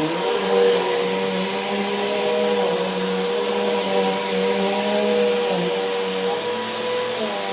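Household vacuum cleaner running steadily while vacuuming. Its motor hum dips and shifts slightly in pitch now and then.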